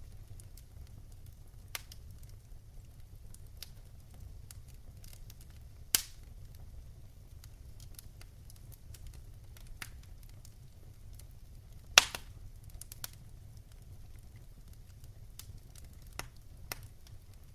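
Wood fire burning in a fireplace: a low steady rumble with irregular sharp crackles and pops, two louder pops at about six and twelve seconds in.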